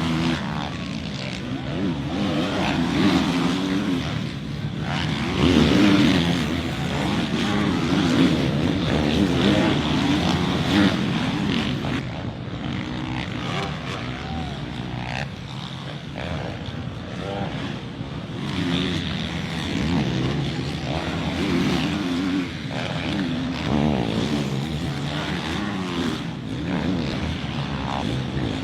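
Motocross dirt bike engines revving, their pitch rising and falling over and over.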